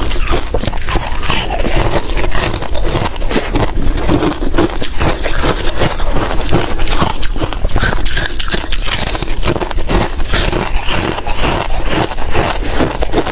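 Close-miked shaved ice being scraped and crunched, a dense unbroken run of crisp crackling.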